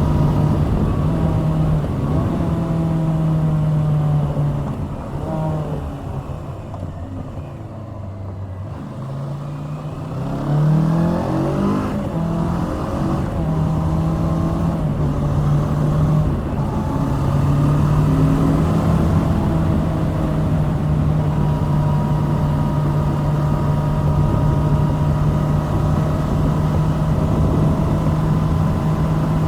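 2021 Kawasaki Z650's liquid-cooled 649 cc parallel-twin engine running under way at a steady speed. About four seconds in it eases off and goes quieter and lower for a few seconds. From about ten seconds in it accelerates again, rising in pitch, then settles back to a steady cruise.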